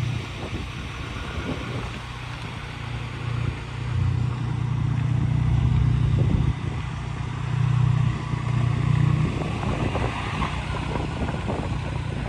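Car engine running with a steady low rumble that swells louder twice, about four and eight seconds in.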